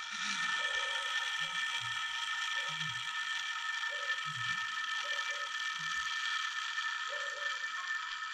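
Irregular mechanical clicking and ratcheting of metal parts being turned or handled, over a steady high whine.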